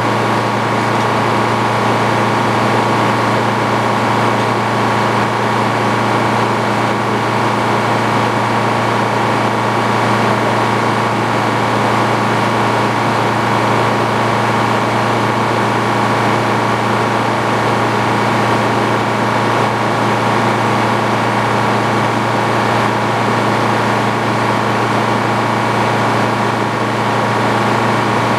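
Antique Frick sawmill running steadily, a loud, even machine hum that holds the same pitch throughout.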